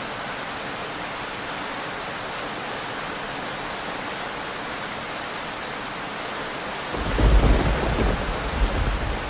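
Heavy rain falling steadily on a roof. About seven seconds in, a loud low rumble of thunder rolls in and keeps rumbling.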